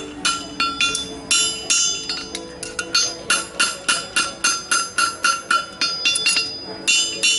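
Blacksmith's hammer striking a hot steel horseshoe on an anvil, about three to four ringing blows a second in a steady forging rhythm.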